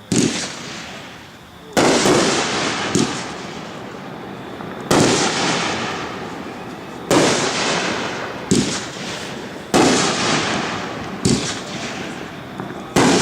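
WOW Fireworks 'Forward' firework going off in a string of loud shots about every one and a half to two seconds. Each shot is a sharp bang followed by a crackling hiss that fades out over a second or two.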